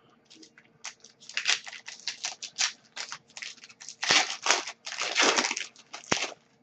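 Hockey card pack's foil wrapper crinkling and tearing as it is handled and opened: a quick run of rustling scrapes, loudest about four and five seconds in.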